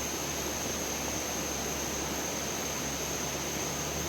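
Steady rushing of flowing water, an even unbroken hiss, with a thin steady high tone above it.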